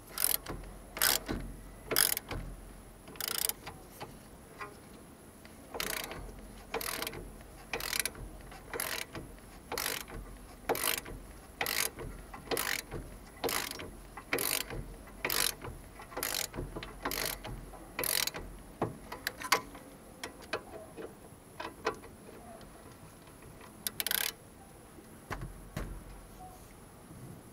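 Ratchet wrench clicking through repeated strokes, about one a second, with a short pause about four seconds in and fewer, fainter strokes after about twenty seconds.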